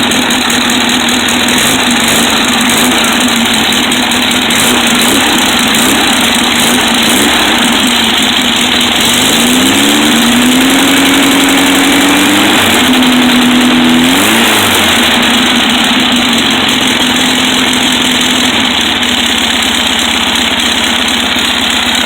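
1500cc Volkswagen air-cooled flat-four engine running on its new headers and exhaust. It idles steadily, is revved up and held twice around the middle, and each time drops back to idle.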